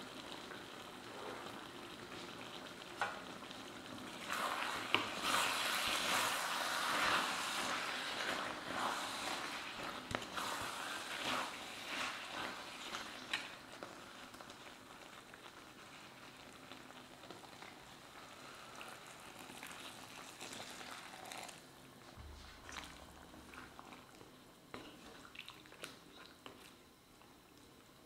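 Chicken and Chinese potato masala sizzling in a stainless steel pan while a wooden spatula stirs and scrapes through it, with many small clicks of the spatula. The sizzle is loudest for about ten seconds starting some four seconds in, then settles to a quieter sizzle.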